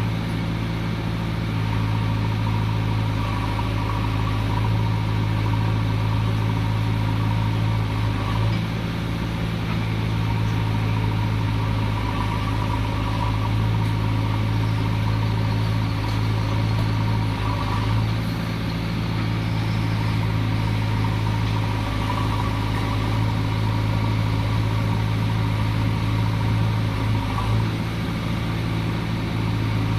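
Diesel engine of heavy earthmoving machinery running steadily with a low, even hum. Its note shifts briefly about three times, roughly every nine seconds, as the load changes.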